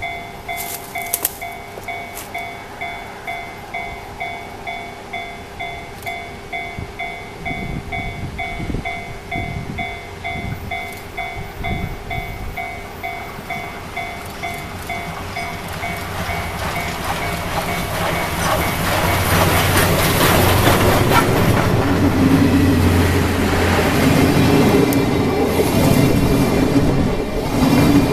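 Level-crossing warning bell ringing in a steady, even repeat, about one and a half to two strokes a second. The C61 steam locomotive and its 12-series coaches then come up and pass close by, a heavy rumble and wheel clatter that swells from about two-thirds of the way in and covers the bell.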